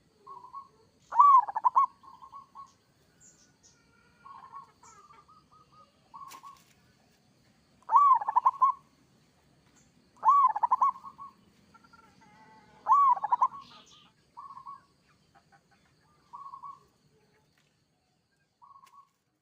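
Male zebra dove (perkutut) cooing. It gives four loud rolling coo phrases, each an upswept note breaking into a fast burbling trill about a second long, with shorter, quieter coos between them.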